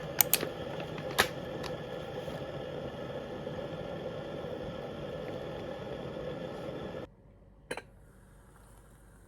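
A steady machine hum with a droning tone, like a fan or small motor, with a few sharp clicks in the first second or so. The hum cuts off abruptly about seven seconds in, leaving faint room tone and one more click.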